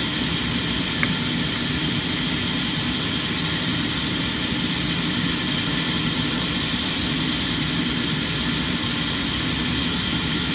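Sawmill machinery running steadily with an even hum and hiss that does not change, and one small click about a second in.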